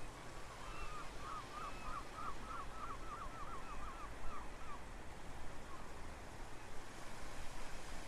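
A bird calling a quick run of about a dozen repeated notes that speed up and stop under five seconds in, over a steady outdoor background with a low hum.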